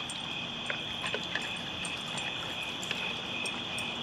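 Night insects, crickets, chirring in a steady chorus, with a few faint clicks and taps.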